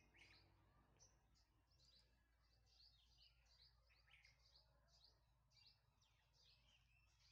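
Faint birdsong: many short, high chirps, several a second, some sliding downward, over near silence.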